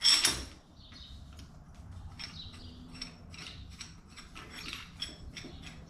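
A ratchet wrench clicking in short, steady strokes, about three to four clicks a second, as it winds a coil-spring compressor onto a strut spring, after a single metal knock at the start.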